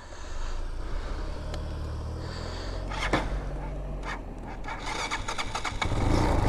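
A motor vehicle engine running at idle, a steady low drone, that picks up and gets louder about six seconds in.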